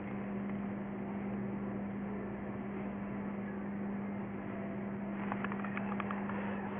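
Steady low hum over a constant background noise, with a few faint clicks near the end.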